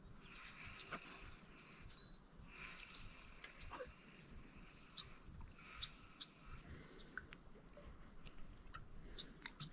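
Faint, steady high-pitched trilling of insects such as crickets, with scattered small clicks.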